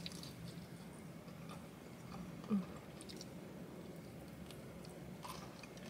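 Faint chewing of a crispy fried chicken drumstick, close to the mouth, with a few small crackles of the breading. There is a brief low hum about halfway through.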